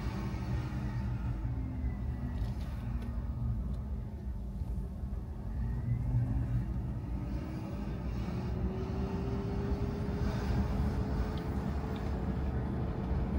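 Car engine and tyre rumble while driving: the engine note drops over the first few seconds as the car slows, then climbs steadily as it speeds up again.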